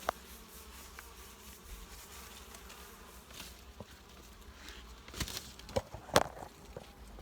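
Honeybees buzzing around an open hive, with a few sharp knocks about five and six seconds in as the hive is handled.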